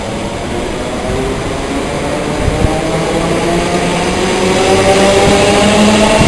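A train's traction motors whining as it accelerates, the pitch rising steadily and the sound growing louder.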